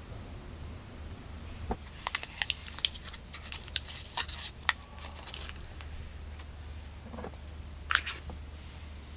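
A series of short sharp clicks and crinkles, as of something being handled, most of them between about two and five seconds in and one more near the end, over a low steady hum.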